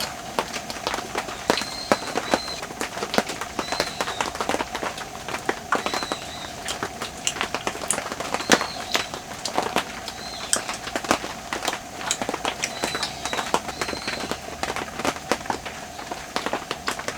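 Raindrops falling in irregular sharp taps, with a bird repeating a short high chirp every second or two.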